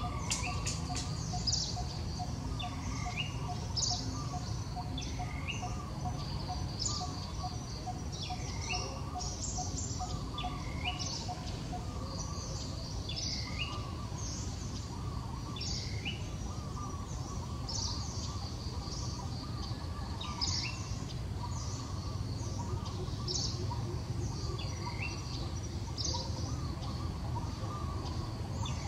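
Forest birds calling repeatedly, a falling call with a hooked end about every second or two, over a faint high steady tone and a steady low background rumble.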